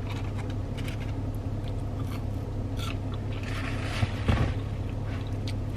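Close-up chewing and eating sounds with small clicks, and a scraping rustle about three and a half seconds in that ends in a thump, over a steady low hum.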